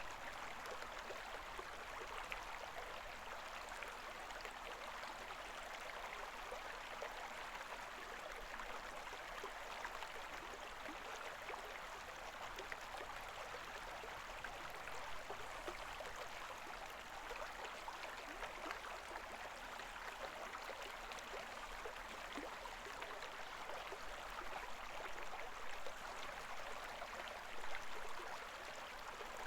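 Koma River's shallow murmuring stream: a steady rush and babble of running water, swelling slightly louder a few times near the end.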